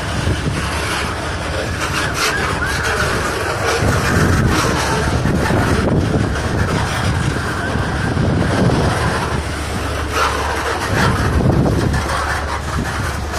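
CSX freight train of boxcars rolling past close by: a steady rumble and rattle of steel wheels on the rails with a few scattered clanks. Gusty wind is buffeting the microphone.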